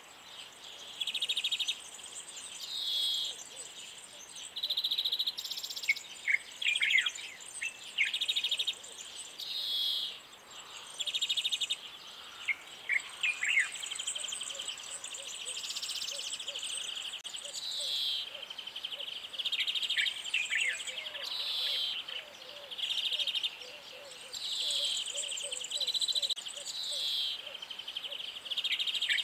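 Birdsong: several birds calling with short, rapid trills and chirps that repeat every second or two, some sweeping down in pitch.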